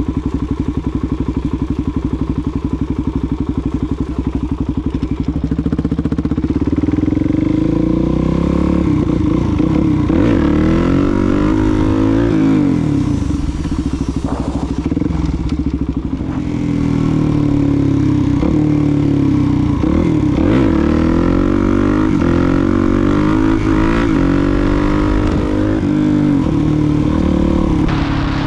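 Suzuki DR-Z400SM motorcycle's single-cylinder four-stroke engine under way: steady and low at first, then from about six seconds in revving up and falling back again and again as the bike accelerates and changes gear.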